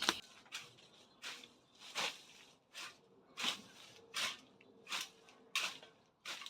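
Regular rustling, scraping strokes from garden work, about three every two seconds.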